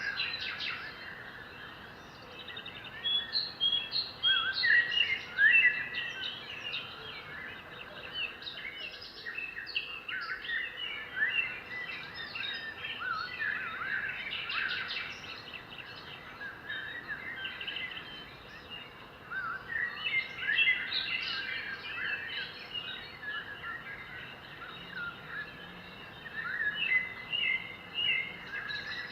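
Several birds chirping and singing in busy flurries of short, high calls, with quieter stretches between, over a faint steady outdoor background.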